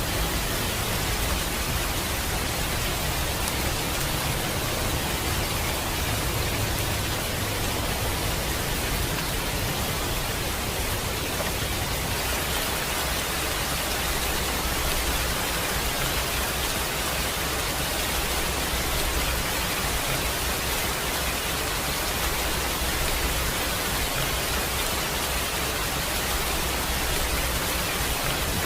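Steady rain: an even hiss of falling rain with a low rumble beneath it.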